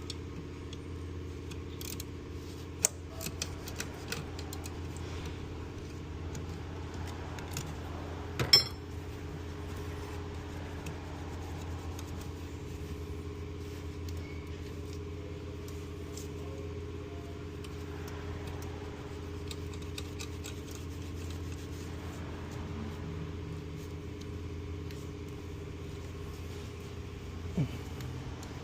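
Mercedes-AMG C63's twin-turbo V8 running steadily at idle, with a few sharp metallic clicks and clinks of tools, the loudest about eight seconds in.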